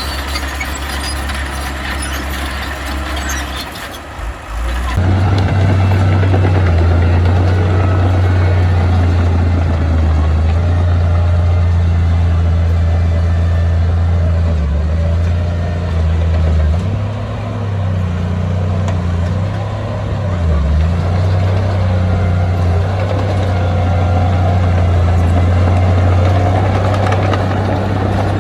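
Heavy diesel engine of a construction machine running, a loud, steady low rumble. About five seconds in the sound changes abruptly and gets louder, and later the engine note dips and comes back a few times.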